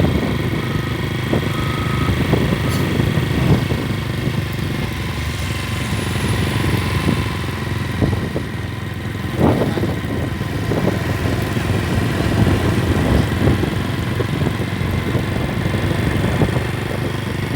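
An engine running steadily with a low drone and a few faint steady whines above it, with scattered short knocks, one sharper about halfway through.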